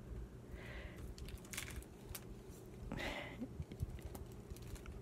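Faint handling noise: scattered small clicks, with two soft hissing sounds, one about half a second in and one about three seconds in.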